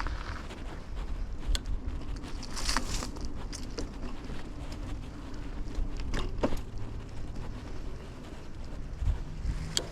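Riding sounds of a 2000 Kona Blast mountain bike heard from a chest-mounted camera: a steady low rumble of tyres and wind, broken by a few sharp clicks and rattles from the bike about a second and a half in, near three seconds, around six seconds and again near the end. A faint steady hum sits under the middle of it.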